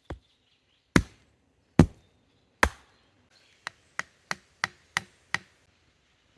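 Axe chopping wood: three heavy blows less than a second apart, then six lighter, quicker blows.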